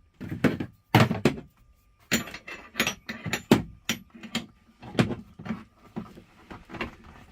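A series of irregular sharp knocks and thunks, about a dozen unevenly spaced blows, from hands-on work on fittings inside a truck's sleeper cab.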